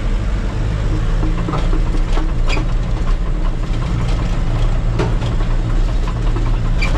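Diesel engine of a piece of heavy construction equipment running steadily with a low, even drone, with a few faint clicks and knocks over it.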